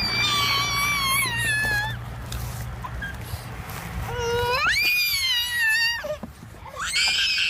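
High-pitched wailing cries, three long ones, each rising and then falling in pitch.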